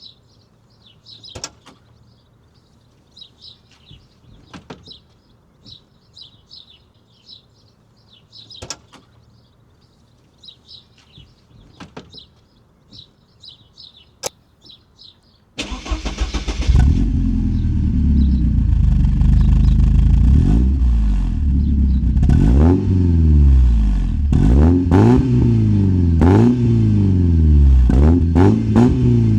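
Faint bird chirps and a few sharp clicks over quiet, then about halfway a 1987 Porsche 944 2.5's four-cylinder engine starts from cold and settles into a loud run through its Fox sport exhaust. In the last several seconds it is blipped repeatedly, the pitch rising and falling with each rev.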